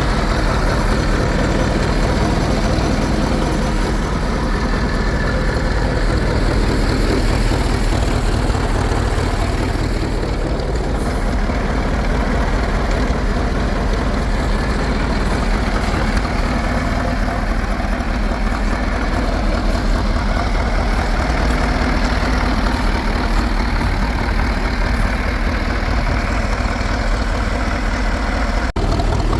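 Fordson E27N tractor engine idling steadily.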